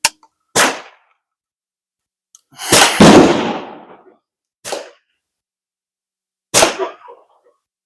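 Gunshots at an outdoor shooting range, about five in a few seconds. The loudest comes about three seconds in and has a long rolling tail.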